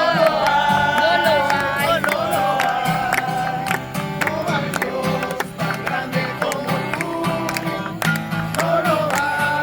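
Voices singing a worship song to a strummed acoustic guitar.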